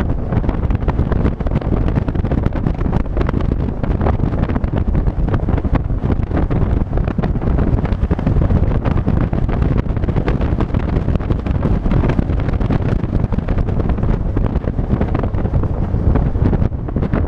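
Wind buffeting the microphone of a moving vehicle, mixed with road and engine noise.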